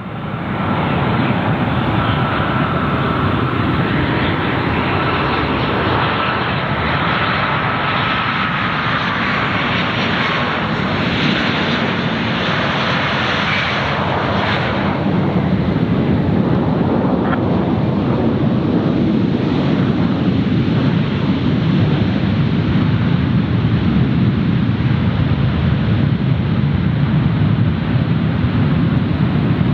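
Jet airliner engines: a continuous roar with a thin high whine that slowly falls in pitch over the first ten seconds or so, giving way to a steady low rumble.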